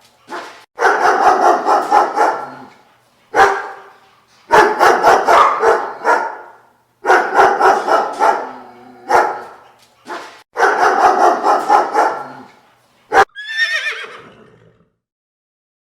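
Animal calls in about six loud bouts of quick, repeated barks from a dog, followed near the end by a single horse whinny that falls in pitch.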